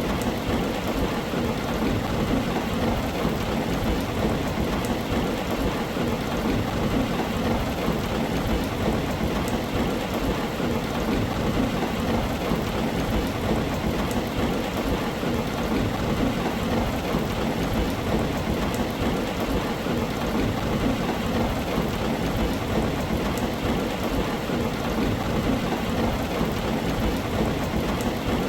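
Heavy rain falling steadily on a tin roof: a dense, even noise, heaviest in the low range, with no single loud crack or peak.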